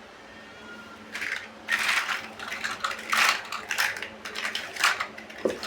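Plastic building bricks being handled: irregular clicks, clatter and rustling as pieces are picked out and pressed together, starting about a second in.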